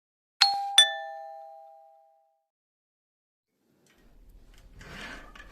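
Two-note chime, a ding-dong falling in pitch, the two strikes close together and ringing out for about a second and a half. Faint room noise starts near the end.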